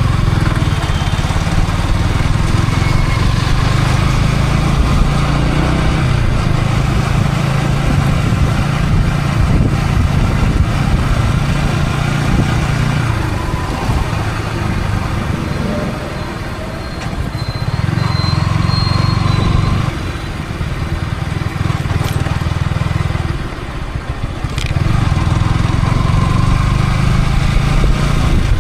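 Yamaha R15 V3 motorcycle's single-cylinder engine running under way, with wind rush on a helmet-mounted microphone. The engine note eases off briefly twice, a little past halfway and again about four-fifths through, then picks up again.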